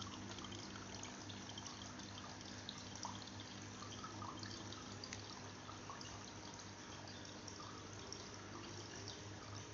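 Water trickling and dripping over a small homemade tabletop bonsai waterfall fountain, faint and steady, with a low steady hum underneath.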